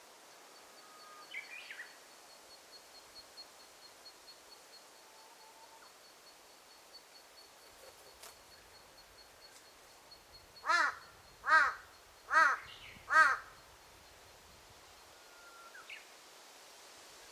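Crow cawing four times, about a second apart, a little past the middle. Under it, quiet forest ambience with a high, rapid ticking call and a few soft bird chirps.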